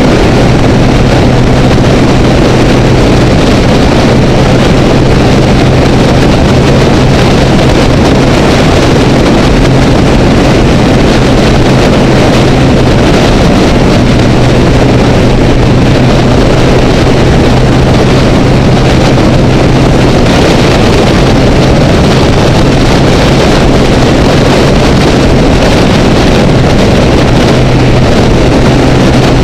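Honda Rebel motorcycle engine running at a steady pitch while cruising at freeway speed, under dense wind and road noise.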